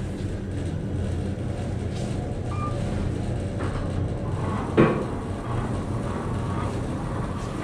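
Elevator car running: a steady low mechanical hum, with a single thump about five seconds in.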